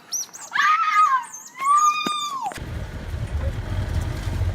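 A loud, high-pitched animal cry lasting about two seconds, wavering and then held, with quick high chirping calls above it. It cuts off abruptly and gives way to a steady low rumble of wind on the microphone.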